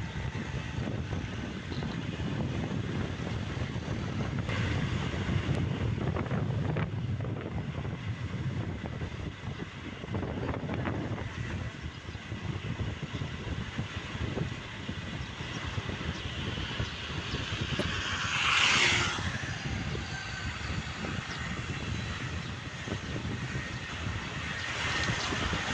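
Motorbike riding: a steady engine drone mixed with road and wind rush. A louder rushing swell comes about two-thirds of the way through, and another starts near the end.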